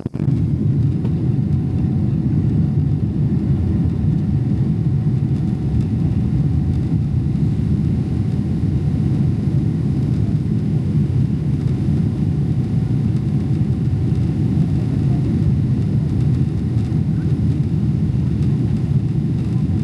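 Steady cabin rumble of a Boeing 777-300ER airliner under way, its engine and airflow noise an even low drone with a faint steady hum above it.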